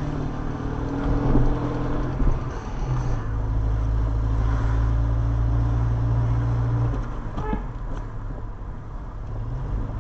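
Car engine drone and road noise heard from inside a moving car's cabin.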